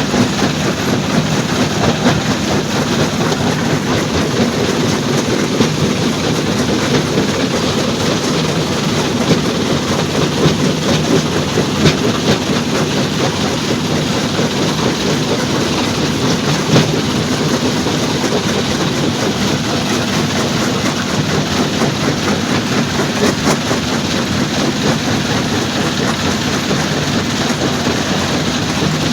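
Stone crusher plant machinery running steadily, with a continuous rattling clatter of rock and a few louder knocks.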